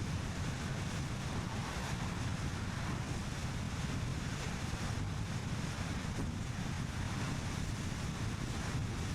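Steady rumble of a car driving along a road, tyre and wind noise, with wind buffeting the microphone.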